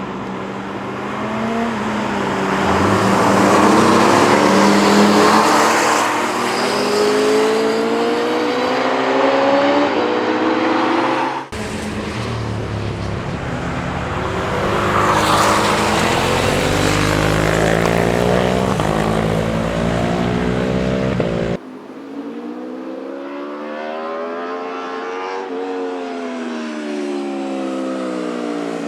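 Sport motorcycles passing at speed, engine pitch climbing in steps through upshifts, each pass swelling as the bike goes by. The sound cuts abruptly twice, making three separate pass-bys; in the last the pitch rises, then falls as the bike passes.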